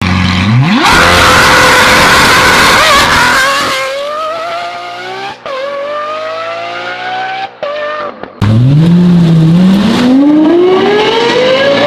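Performance car engines accelerating hard, the pitch climbing with the revs, in several short clips cut together. A fresh run starts from low revs a little past eight seconds in and climbs steadily.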